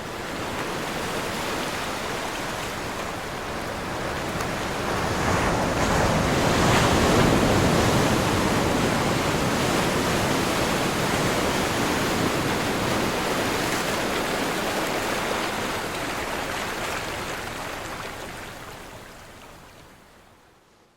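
Ocean surf: a continuous rushing wash of breaking waves that swells to its loudest several seconds in and fades away near the end.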